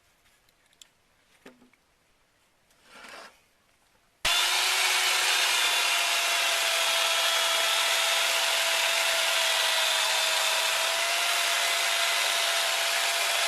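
Quiet with a brief rustle, then about four seconds in an electric chainsaw starts suddenly and runs steadily, cutting through wooden boards along the seam between them.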